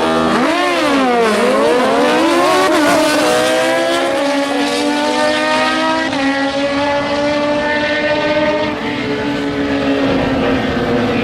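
Drag-racing motorcycle engine run at full throttle down the strip: the pitch dips just after the start, then climbs in steps with the gear changes and holds high revs through most of the run.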